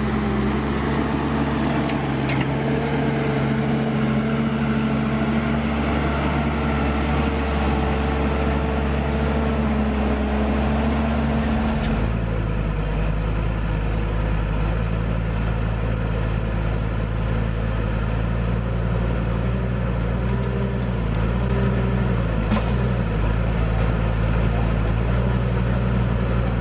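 T-150K tractor's diesel engine running steadily. About twelve seconds in the sound changes abruptly to a different engine note, which wavers slightly in pitch later on.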